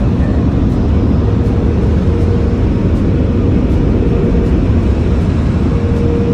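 Automatic car wash machinery heard from inside the car's cabin: a loud, steady rushing drone with a faint hum running through it.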